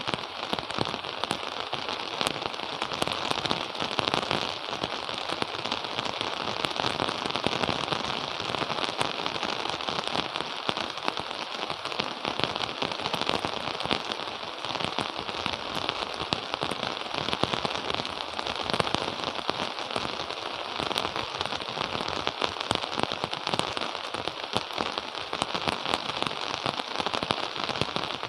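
Steady rain falling, a dense even hiss of drops with many fine ticks of individual drops striking close by.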